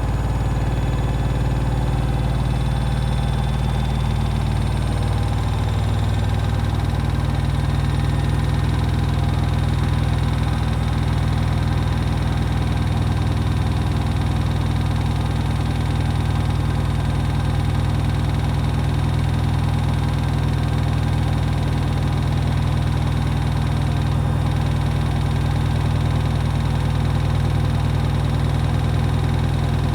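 Hoover HW411AMC washing machine in its final spin: the motor and drum run with a loud, steady hum and whine. The pitch climbs over the first several seconds as the drum speeds up toward its 1400 rpm spin, then holds steady.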